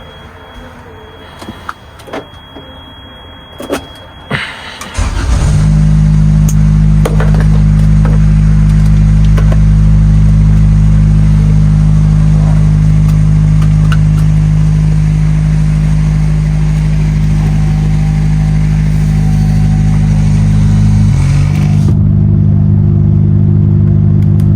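A few light clicks and knocks, then about five seconds in a DAF XF truck's diesel engine comes in abruptly and loud, running at a steady pitch. Its note shifts slightly near the end.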